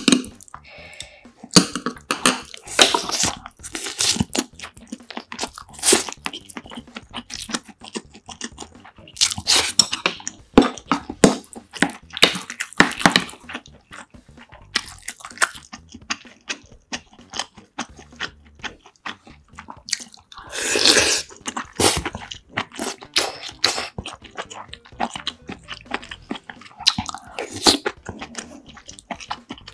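Close-miked eating sounds: chewing and crunching, with utensils clicking against a bowl as rice is mixed and scooped.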